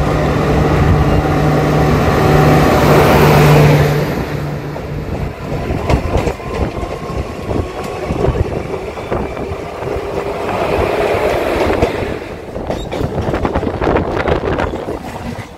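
Running noise of a moving train heard at an open carriage door: rumble, rattle and rushing air, with frequent clicks of wheels over rail joints while a passenger train runs on the next track. A steady low hum sits under it for the first few seconds and fades about four seconds in.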